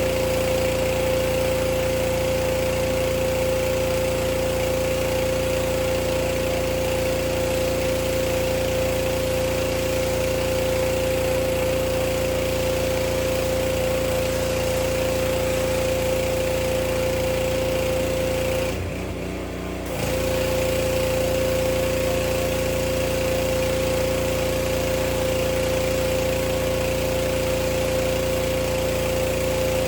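Gas-engine pressure washer running steadily at full throttle while spraying; the sound drops for about a second roughly two-thirds of the way through, then comes back.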